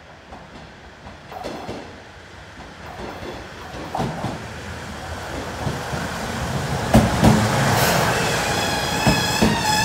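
A KiHa 110-series diesel railcar pulls into the platform. Its rumble grows steadily louder as it approaches, and its wheels clack over the rail joints from about seven seconds in. A wavering brake squeal starts near the end.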